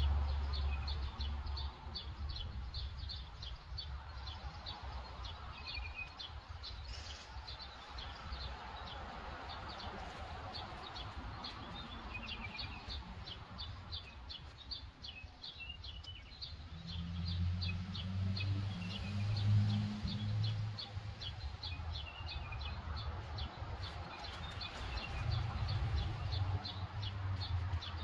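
Small birds chirping: a steady run of short high chirps, several a second, with now and then a lower warbled note. A low rumble comes and goes in the second half.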